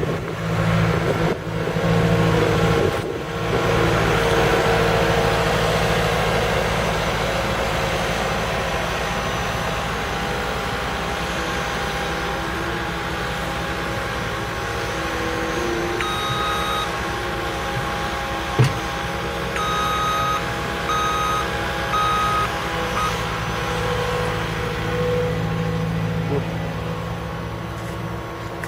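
Caterpillar 236D skid steer's diesel engine running steadily as the machine is driven, its note shifting a little with throttle. A little past the middle a reversing alarm beeps several times as the loader backs up, with a single sharp knock just before.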